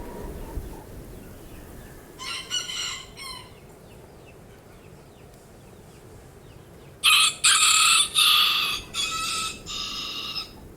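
A rooster crowing: a quieter, shorter crow about two seconds in, then a loud full crow in several linked parts starting about seven seconds in.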